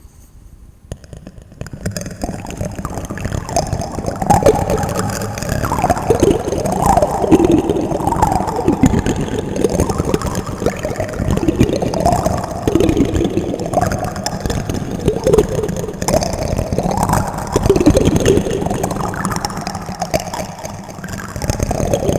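Plastic spoons clattering and rattling against each other in a dense, continuous jumble, starting about a second in and quickly growing loud, with wavering pitched scrapes mixed in.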